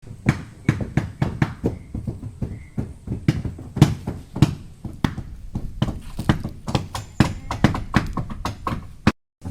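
Hammering on a boat under repair: quick, irregular blows, several a second, cutting off abruptly near the end.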